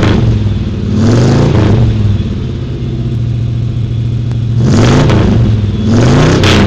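An engine being revved several times: the pitch rises and falls about three times, around one, five and six seconds in, with a steadier, lower-running stretch between the revs.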